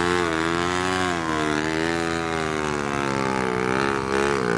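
Off-road motorcycle engine running at held revs, its pitch wavering gently up and down with a short dip near the end.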